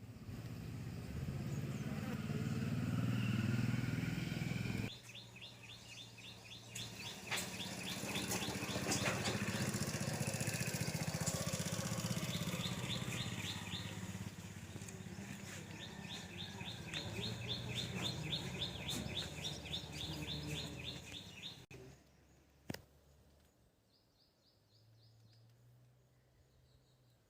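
Rural outdoor ambience: a steady low engine hum, like a passing motorcycle or other motor vehicle, with bird chirps in fast repeated trills coming and going over it. Both stop abruptly about three-quarters of the way through, leaving a quieter background with a few faint chirps.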